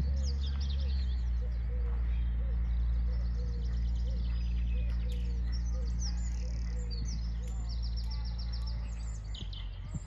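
Small birds chirping and trilling in repeated high phrases over a steady low drone. The drone is the loudest sound and fades out near the end.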